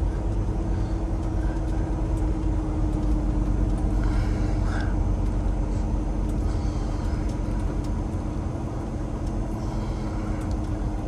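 Peterbilt 389's Cummins X15 diesel engine running steadily under a low rumble, with a steady drone, heard from inside the truck's cab.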